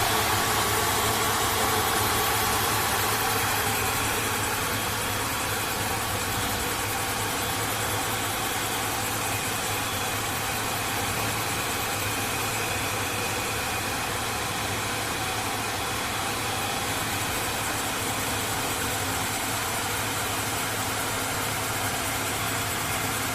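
9 kW spindle of a CNC router running at high speed: a steady hiss with a faint, even high whine, a little louder in the first few seconds before settling.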